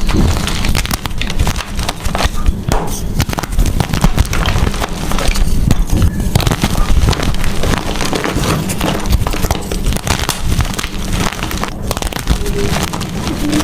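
Blocks of gym chalk crushed and crumbled by hand, a dense, continuous crackling and crunching made of many small snaps.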